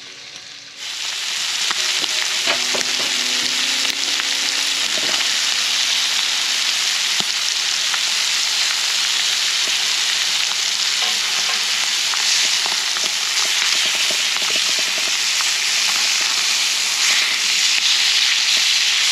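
Steak sizzling in a hot skillet: a steady, fairly loud frying hiss that starts abruptly about a second in.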